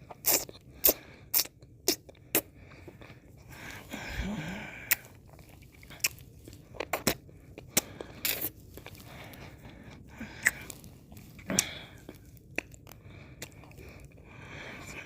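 Close-miked mouth sounds of eating and licking ice cream: many sharp wet clicks and smacks, with a few longer licks, one about four seconds in and another near the end.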